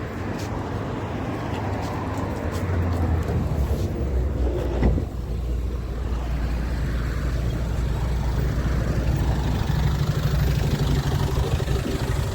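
PAZ-4234 bus heard from on board: its diesel engine running steadily under way, with a brief change in the engine note about five seconds in.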